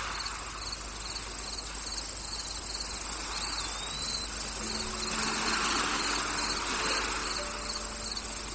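Recorded insect chorus: a steady high-pitched trill with crickets chirping in regular pulses, about two a second, over a soft even rushing wash. A brief gliding whistle comes partway through, and faint low sustained tones enter about halfway.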